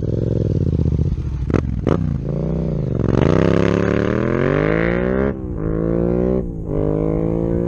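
Yamaha MT-07's parallel-twin engine through an aftermarket exhaust, blipped and then accelerating hard. The pitch climbs, drops suddenly with a gear change about five seconds in, climbs again and drops at a second shift. Two sharp cracks come from the exhaust early on the throttle.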